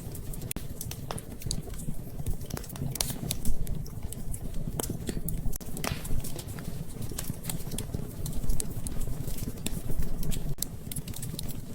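Wood fire in a fireplace crackling, with many irregular small snaps and pops over a steady low rumble; a couple of sharper pops stand out, about three and a half seconds in and again past eight seconds.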